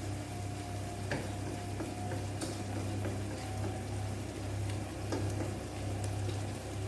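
Vegetables frying gently in a pan with a soft sizzle, stirred with a utensil that clicks against the pan a few times. A steady low hum runs underneath.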